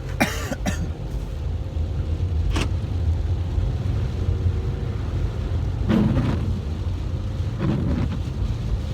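Car cabin noise while driving: a steady low engine and road rumble, with a few brief knocks.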